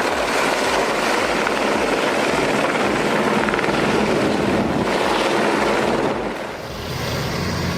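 Helicopter running steadily with the regular beat of its rotor. About six seconds in it drops away and a different, steadier engine sound takes over.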